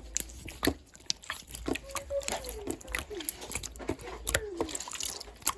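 Slime being squished and pressed by hand, making many small, quick clicking pops.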